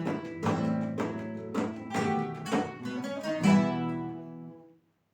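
Ensemble of acoustic guitars playing sharp strummed chords in a Latin dance rhythm, ending on a final chord that rings and dies away into silence.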